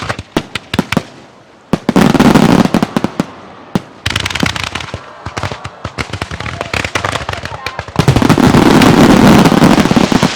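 Aerial fireworks bursting in rapid volleys of sharp bangs and crackles. Two loud, dense stretches of bursting start about two seconds in and again about eight seconds in.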